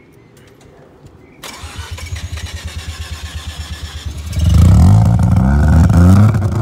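Car engine cranked over by the starter, a quick regular chatter, then catching about four seconds in and revving loudly, its pitch rising and falling.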